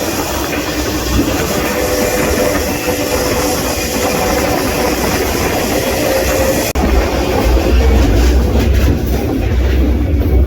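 Rumble and rattle of a moving freight train heard from on board, with clickety-clack of the wheels over the rail joints. The sound breaks off abruptly about two-thirds through and comes back with a deeper, heavier rumble.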